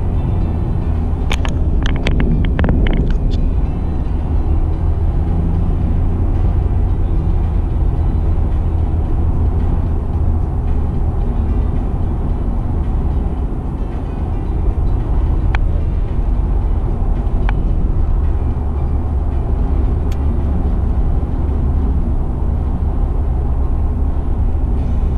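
Car interior road noise while driving on the highway: a steady low rumble of engine and tyres. A short cluster of sharp clicks comes a couple of seconds in, and a few single ticks follow later.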